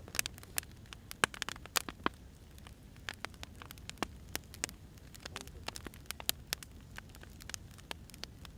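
Firewood burning, crackling with irregular sharp pops and snaps over a low steady hiss.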